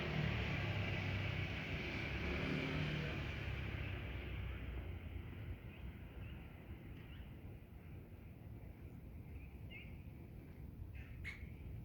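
A passing vehicle's engine noise fades away over the first few seconds. After it, small birds give short, high chirps, a few at first and more near the end.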